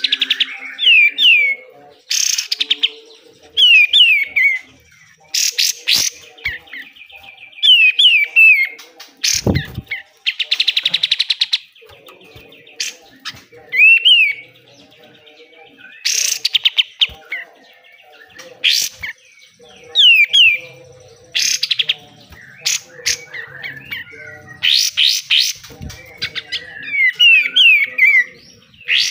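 Kapas tembak (katem) bird singing in repeated bursts: quick falling whistled notes mixed with harsh, sharp besetan phrases, and a fast rattling trill about ten seconds in.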